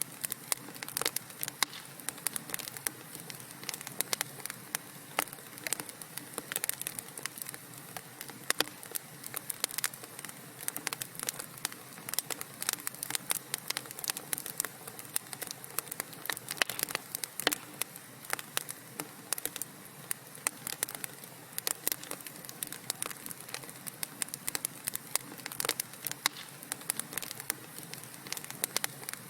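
Wood fire burning in a fireplace, crackling steadily with many small irregular pops and snaps over a soft hiss.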